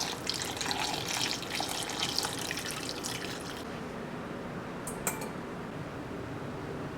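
Kitchen tap running into a sink for about three and a half seconds, then turned off. A short clink follows a little later.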